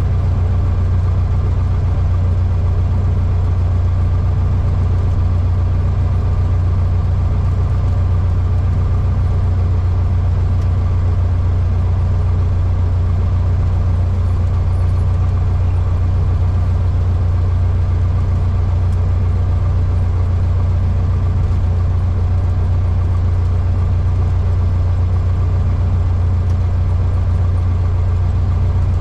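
Cessna 152's Lycoming O-235 four-cylinder engine and propeller running with a steady, even drone, heard inside the cockpit.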